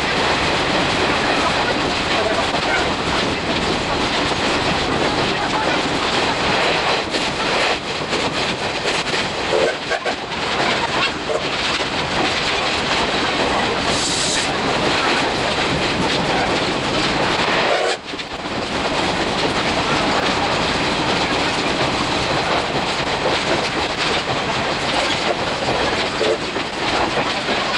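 Running noise of a steam-hauled train heard from inside a 50-series passenger coach: steady wheel-and-rail clatter, sped up six times. A short high hiss comes about halfway through.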